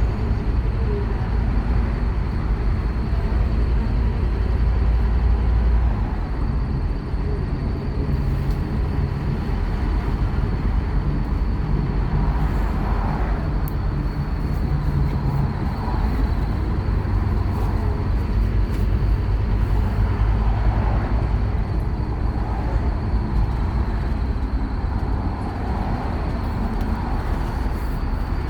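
Scania K230UB Omnilink bus's five-cylinder diesel engine pulling hard under heavy throttle, a steady deep drone with changing engine notes, heard with the bus's running and rattling noise.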